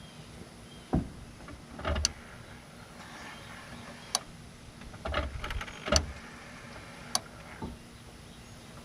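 Scattered clicks and knocks of hands working on a pickup truck: about eight of them, the loudest near one, two and six seconds in, some with a brief rattle. Under them runs a faint steady hum, and no engine is running.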